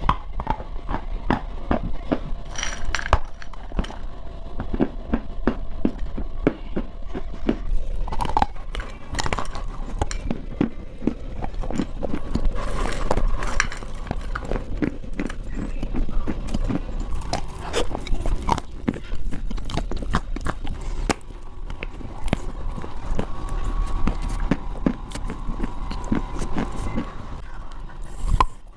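Pieces of clay being bitten and chewed, a dense run of irregular crisp crunches and crackles close to the microphone.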